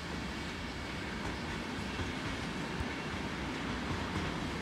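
Deutsche Bahn Intercity passenger train rolling past several tracks away: a steady rumble of wheels on the rails with a few faint clicks.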